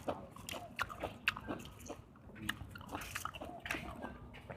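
A person chewing and eating, with wet mouth smacks and clicks coming irregularly several times a second.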